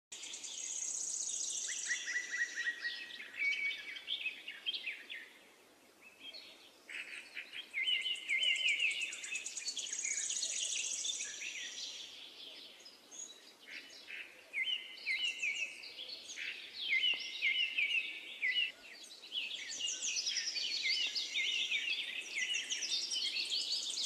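Several songbirds singing together, overlapping chirps and rapid high trills, with a brief lull about six seconds in.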